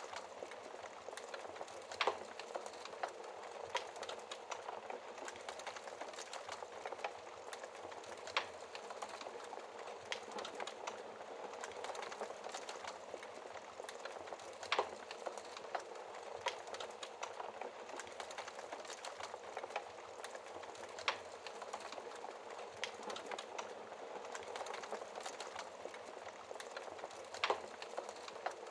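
Wood fire burning in a fireplace: a steady crackle and hiss with many small ticks, and a sharper pop about every six seconds.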